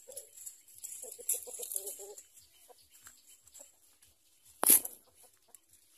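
Society finches calling at the nest: quick runs of short, low, clucking notes and a high, thin hissing. One sharp knock sounds about three-quarters of the way through, the loudest thing heard.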